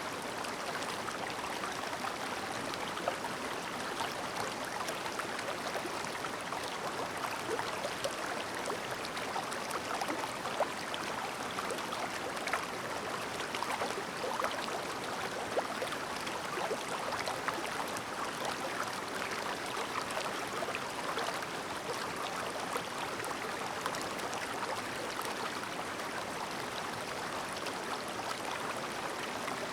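Clear mountain stream babbling steadily: a constant rush of flowing water, broken by many small quick splashes and gurgles.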